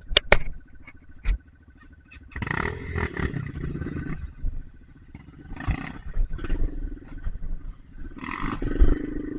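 Off-road motorcycle engine revving in repeated bursts as the throttle is opened and closed, with a couple of sharp knocks near the start.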